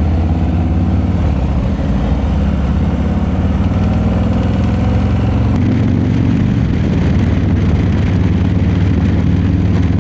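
Harley-Davidson bagger's V-twin engine running while riding, with wind noise on the microphone. The engine note and the wind change about halfway through.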